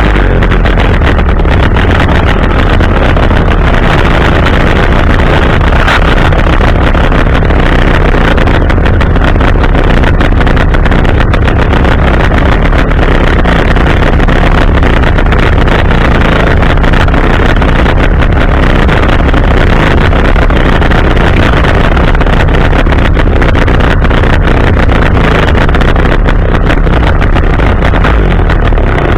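Chainsaw engine running steadily at low speed, very loud and close to the microphone.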